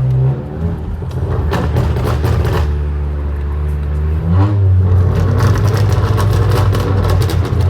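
Turbocharged 1.5-litre four-cylinder of a Honda Accord Sport running through a straight-through exhaust with a catless downpipe and deleted resonator and muffler. It gives a loud, steady low drone, with a short rise in pitch about four seconds in.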